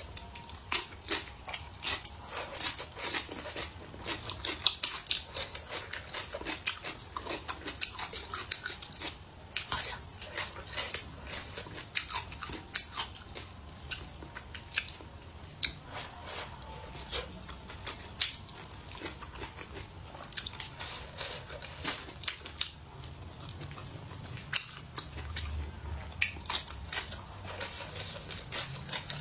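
Close-up eating sounds: wet chewing and lip smacking on stir-fried food, with chopsticks clicking against the plate. Many sharp, irregular clicks and smacks.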